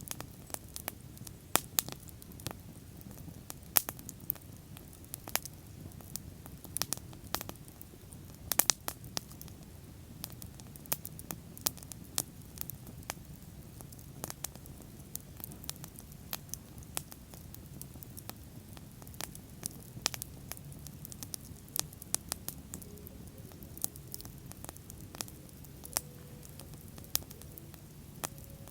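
Bonfire burning: wood crackling and popping in sharp, irregular snaps over a low, steady rumble of the flames.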